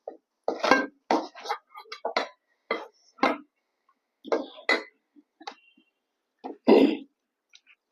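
Close-miked eating sounds: a person chewing and smacking a mouthful of food, about a dozen short, sharp mouth sounds at irregular intervals.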